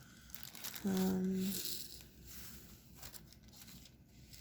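A short closed-mouth hum from a woman's voice, one steady pitch held for under a second, followed by a brief breathy exhale. Faint ticks and light rustling sit around it.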